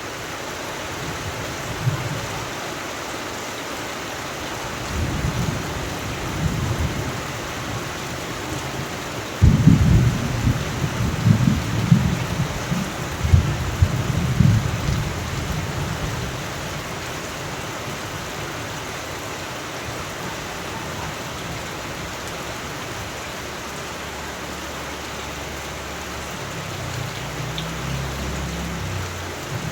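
Steady rain with thunder. A low rumble comes a few seconds in, then a sharp loud clap about a third of the way through that rolls on in rumbles for several seconds; a softer rumble returns near the end.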